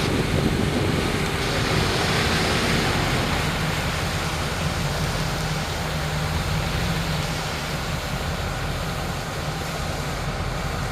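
A truck engine running steadily under a constant hiss.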